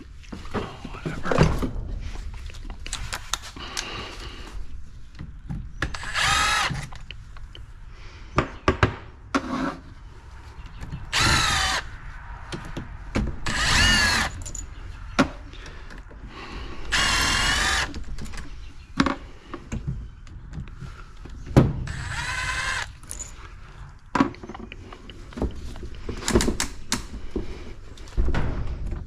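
A 12-volt cordless ratchet motor whirring in short bursts of about a second, about six times, with sharp knocks and clatter of tools and parts in between.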